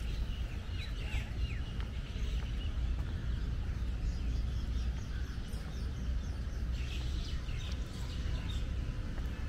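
Several birds chirping, with quick falling calls in the first couple of seconds and a cluster of chirps near the end, over a steady low rumble.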